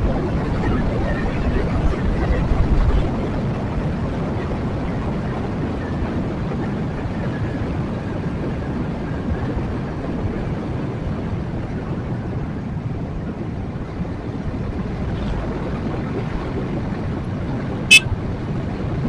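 Yamaha Jupiter MX 135 motorcycle's single-cylinder four-stroke engine running steadily on the move, mixed with road and wind noise, a little louder for the first three seconds. One sharp click near the end.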